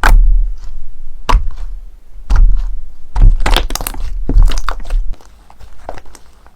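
Slime being handled: a series of sharp slaps or pops with a low thud, about one a second, then fainter crackling for the last second or so.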